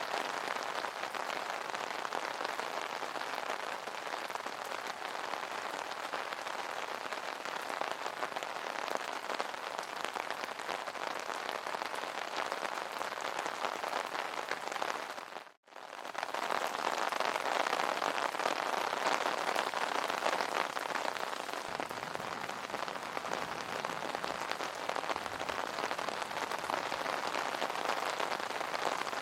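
Rain falling on an umbrella canopy, a steady dense patter of drops. About halfway through it dips to silence for a split second and comes straight back.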